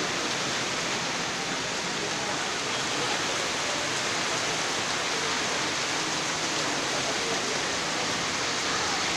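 Heavy rain falling in a steady downpour, an even hiss of water.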